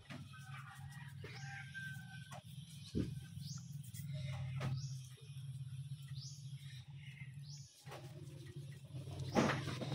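Faint bird chirps, short rising calls repeating every second or so, over a steady low hum. There is a knock about three seconds in and another near the end.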